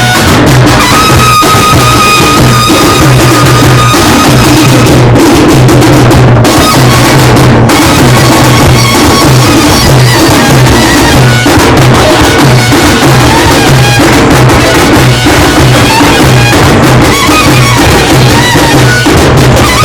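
Loud, continuous drumming of the kind played for Muharram, with a steady repeating beat. A held high tone sounds over the drums for the first few seconds.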